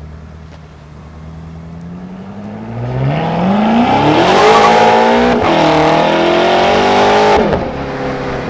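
BMW M6 Competition's S63TU twin-turbo V8 through a titanium Akrapovic M Performance exhaust with catted downpipes, accelerating hard. Revs climb from about two seconds in, with one brief dip and recovery around five and a half seconds, and fall sharply as the throttle closes near the end.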